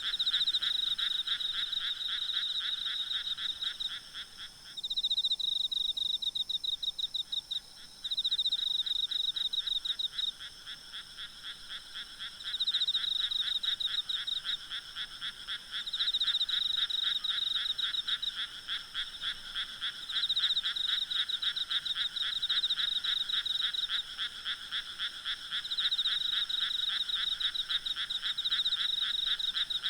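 Night chorus of frogs: many rapid, overlapping pulsed trills, with a louder high trill coming in bouts of a few seconds each. The lower trill drops out briefly about five seconds in.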